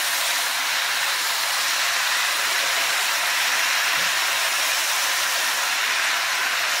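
Cabbage, bell peppers and onions sizzling in a hot nonstick skillet as they are stirred with a spatula: a steady, even frying hiss.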